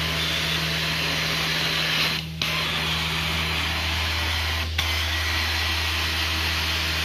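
Carpet-cleaning extraction wand pulling water and dirt from the carpet on slow passes: a steady rush of suction over the machine's low hum. The rush cuts out briefly about two seconds in and again near the five-second mark.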